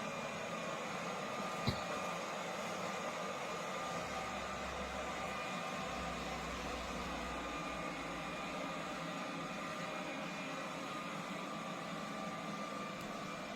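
Steady whirring of a fan motor with a faint whine in it, with a single sharp click about two seconds in.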